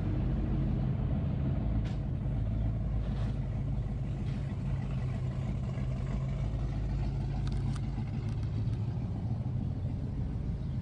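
A car engine running steadily with a deep, even note.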